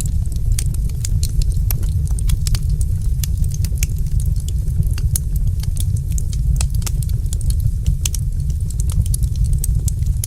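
Fireplace fire crackling: a dense, irregular scatter of sharp pops and snaps over a steady low rumble.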